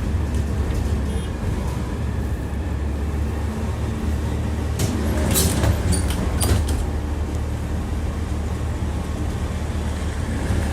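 Tram running along the track, heard from inside the car: a steady low rumble of wheels and running gear, with a quick series of sharp, ringing wheel clacks over rail joints about five to six and a half seconds in.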